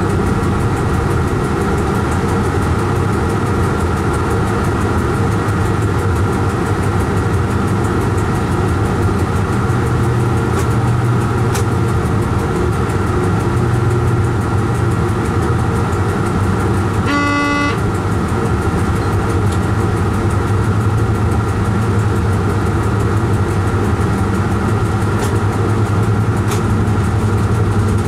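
Train running, heard from the driver's cab as a steady drone with a hum of steady tones, with one short horn toot about two-thirds of the way through.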